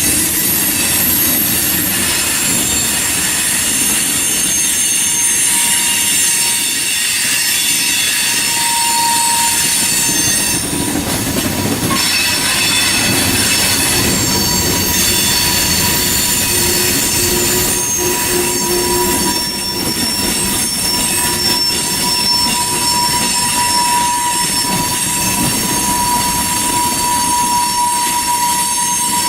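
Freight cars of a passing freight train rolling through a curve, with their wheel flanges squealing in several steady high-pitched tones over the low rumble of the wheels.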